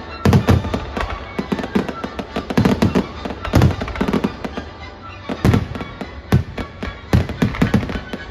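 Fireworks display: shells bursting in a rapid, irregular string of loud bangs and crackles, several a second, with heavier booms about half a second in, around three and a half seconds in, and in the last three seconds.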